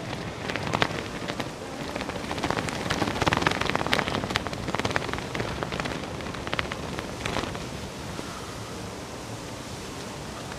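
Typhoon wind and rain lashing an umbrella: a steady rush of rain with a run of sharp cracks and spatters for about the first seven seconds, settling into a steadier hiss.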